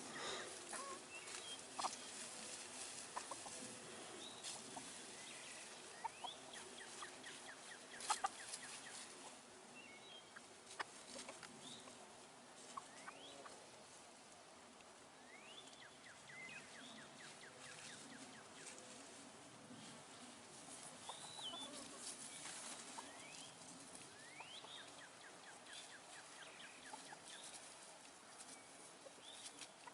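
Chickens clucking quietly as they forage, with scattered short chirps and a few faint clicks, the loudest about eight seconds in.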